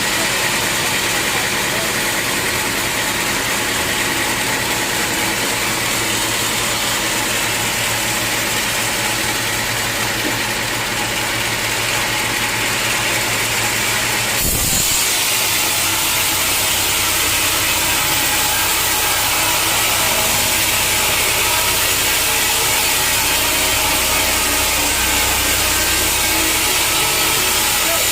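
Sawmill machinery running steadily: an engine-like drone with a continuous whine over it. The sound changes abruptly about halfway through.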